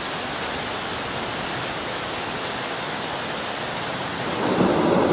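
Heavy rain pouring down, a steady even hiss. A little over four seconds in it grows louder and fuller.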